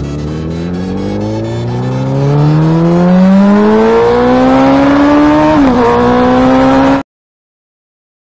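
Motorcycle engine accelerating hard under full throttle, its pitch climbing steadily. About five and a half seconds in it dips once as it shifts up a gear, then holds. The sound cuts off abruptly about seven seconds in.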